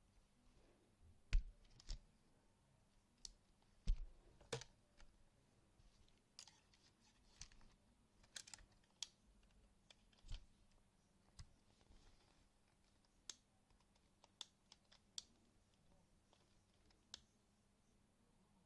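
Faint, irregular clicks and taps, about twenty of them scattered with no steady rhythm, over a faint steady low hum.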